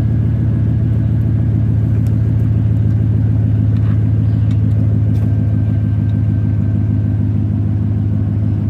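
A 2004 Chevrolet Silverado 1500's Vortec V8 engine idling steadily, with an even low hum.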